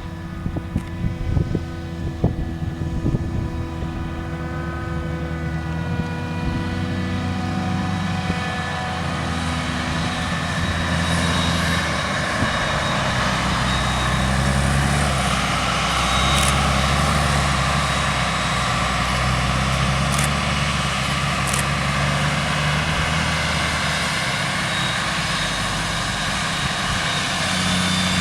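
JCB 3230 Fastrac tractor's Cummins diesel engine running, with a few sharp knocks in the first three seconds. From about ten seconds in it gets louder and rougher, as if working harder.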